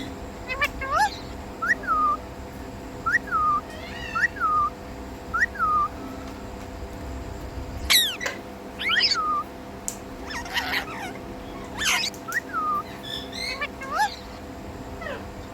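Indian ringneck parrot calling: short chirps that rise and then drop in pitch, about one a second, then louder sweeping squawks from about eight seconds in, over a faint steady hum.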